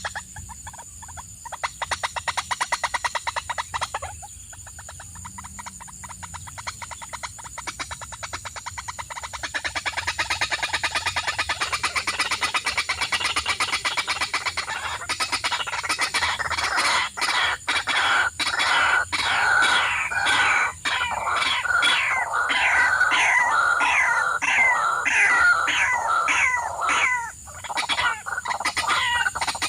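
Birds calling: a rapid, buzzing pulse train at first, then from about halfway through a loud run of repeated falling calls, about two a second. A steady high hiss runs underneath.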